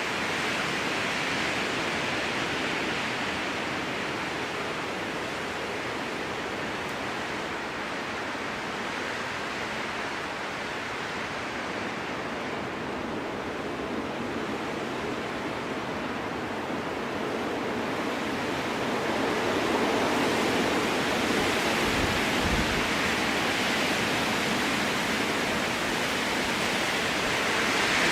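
Strong wind blowing through a spruce forest: a steady rushing noise that swells and eases in gusts, growing louder after about two-thirds of the way in. A brief low rumble comes about three quarters of the way in.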